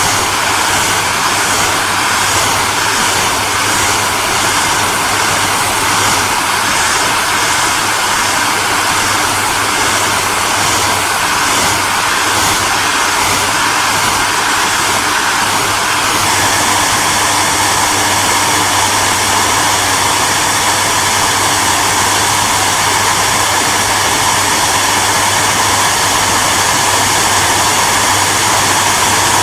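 Hair dryer running steadily: an even rushing whoosh of blown air over a low motor hum, with a slight change in tone about sixteen seconds in.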